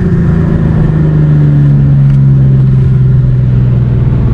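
Car engine running hard under load during a roll race, one continuous loud tone whose pitch sinks slowly.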